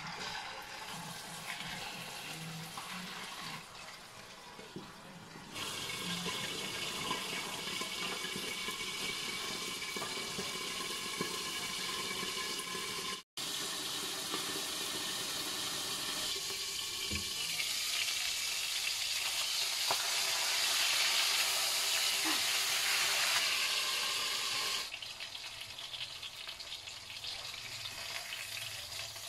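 Fish pan-frying in hot oil, sizzling steadily. After a sudden cut about a third of the way in, a pot of chicken in coconut milk bubbling at a hard boil, louder. Near the end it drops back to the sizzle of the frying fish.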